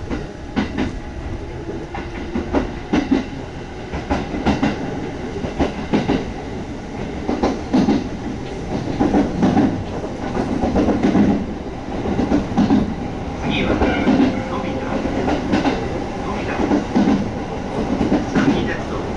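Kintetsu 1200 series electric train heard from inside the car as it gathers speed out of the station: a steady running rumble with wheels clacking over rail joints and points, irregular knocks at first that settle into a more regular clickety-clack.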